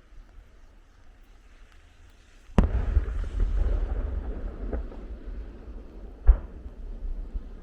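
Aerial firework shells bursting: a sharp bang about two and a half seconds in, followed by a long rumble and crackle, a smaller report near five seconds and another sharp bang about six seconds in.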